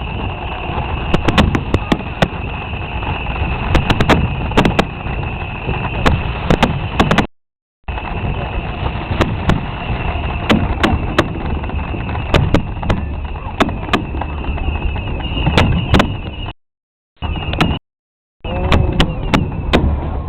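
Fireworks going off: a steady run of sharp bangs and crackles over a low rumble, with the sound cutting out briefly about seven seconds in and twice more near the end.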